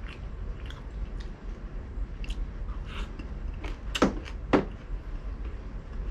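A person chewing a mouthful of fried pork belly close to the microphone: scattered wet mouth clicks, the two loudest about four and four and a half seconds in, over a steady low hum.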